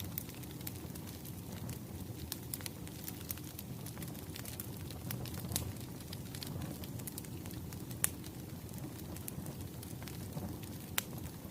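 Wood fire burning: a steady low rumble with irregular sharp crackles and pops. Two louder pops come about eight and eleven seconds in.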